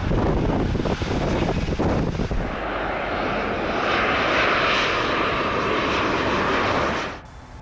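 Airbus A350-900's Rolls-Royce Trent XWB jet engines running with a loud roar, rumbling low for the first couple of seconds and then growing into a louder, hissing roar that cuts off suddenly near the end.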